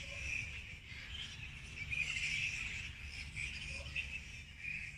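A roosting colony of flying foxes chattering and squabbling in a continuous, uneven high-pitched chorus over a low background rumble.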